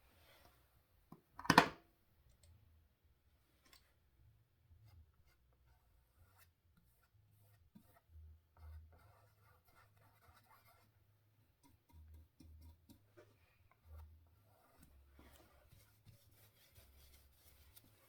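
Faint, intermittent scratching and dabbing of a painting tool working paint on a canvas, with one sharp knock about a second and a half in.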